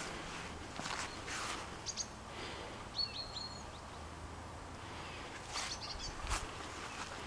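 Outdoor background noise with a few short, high bird chirps near the middle, and a few soft footsteps on grass and gravel.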